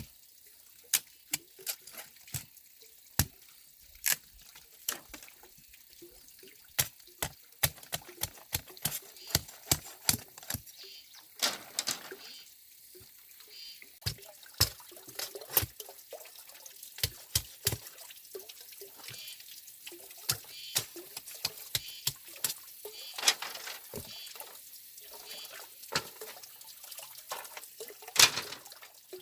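Water splashing and dripping, with many irregular sharp knocks and clicks, about one or two a second.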